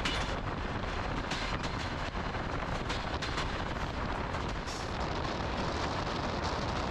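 Old Soviet-era passenger train running on the rails: a steady rumble with many short, sharp rattles and clicks.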